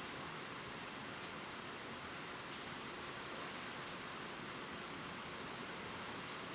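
Gentle rain falling on leaves: a steady, even hiss with faint scattered drop ticks.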